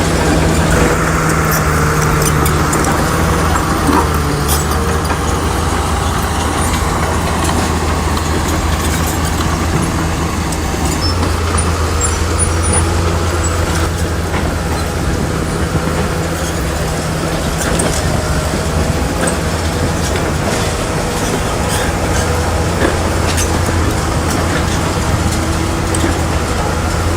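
Bulldozer's diesel engine running steadily at a low, even drone, with scattered short metallic clicks and clanks over it.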